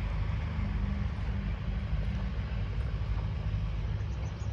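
Steady low engine drone over a broad rushing noise, with a few short high chirps starting near the end.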